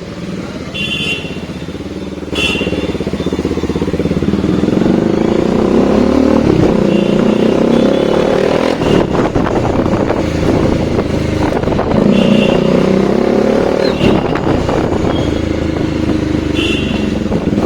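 Bajaj Dominar 400's 373 cc single-cylinder engine, breathing through a new aftermarket exhaust, running under way while riding. Its pitch rises and falls back several times as the bike accelerates and shifts gears.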